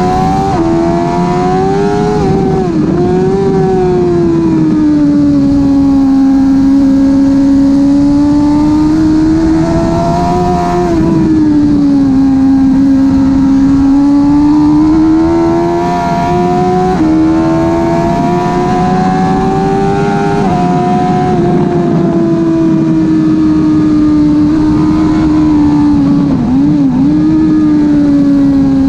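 2005 Suzuki GSX-R1000 K5's inline-four engine running hard through a Bodis slip-on exhaust. Its pitch rises and falls with throttle, with a few short jumps and dips as gears change.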